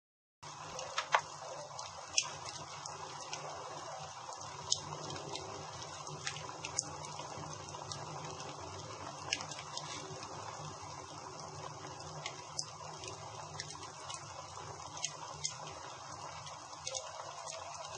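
Campfire burning: a steady hiss with irregular sharp crackles and pops, about one every second or two. The sound drops out for a split second at the very start.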